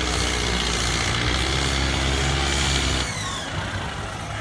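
Farm tractor engine running hard and steady, then dropping off suddenly about three seconds in, followed by a faint falling whine as it winds down.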